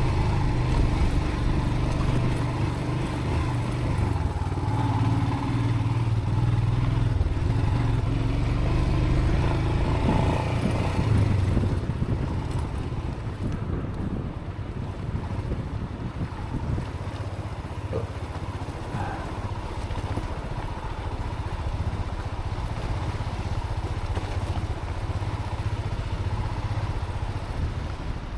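Motorcycle engine running with a low rumble under a steady rush of noise, louder for the first twelve seconds or so, then quieter.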